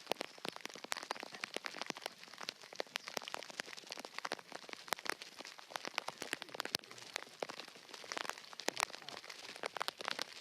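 Rain falling, with many irregular drop hits close to the microphone.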